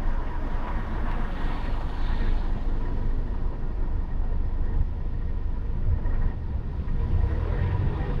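Car driving in city traffic: a steady low road-and-engine rumble with a noisy wash of tyre noise over it, jumping up sharply at the start and then holding steady.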